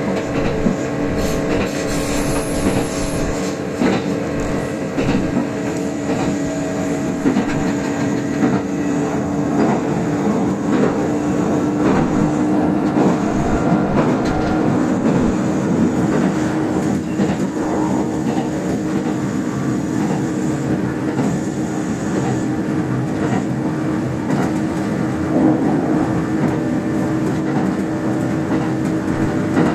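Kintetsu express electric train running at speed, heard from inside the lead car: a steady rumble of wheels on rail with a constant motor hum and irregular clicks from the track.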